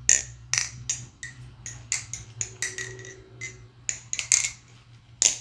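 MachineWise Mayrn Lite balisong with aluminum handles being flipped: a quick, uneven run of sharp metallic clicks with a light ring as the handles swing and strike, about three to four a second, ending with one loud click near the end.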